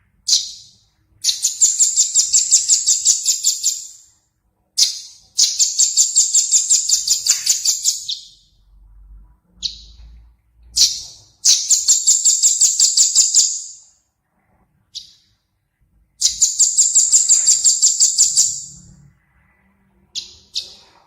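Recorded small songbird repeating a high, rapid trill of about seven notes a second, each trill lasting about three seconds, four times over, with short sharp single calls between the trills.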